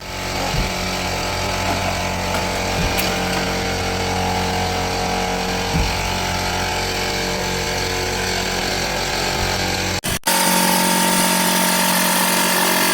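Power tool running steadily against car body metal, with a few knocks in the first half. About ten seconds in the sound cuts abruptly to a louder, steadier run.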